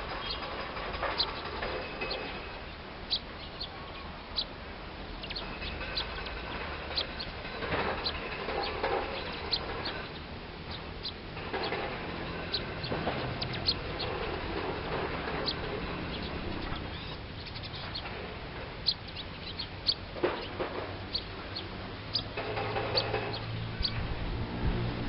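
Birds calling: many short, sharp high chirps scattered throughout, with a few louder bouts of lower, repeated calls.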